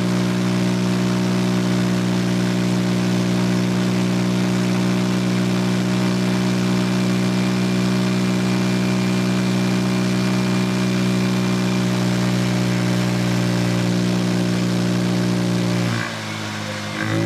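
Vespa Sprint 150 scooter's single-cylinder four-stroke engine, with a Malossi CVT kit, running at a steady engine speed. Near the end the engine speed drops briefly and then picks back up.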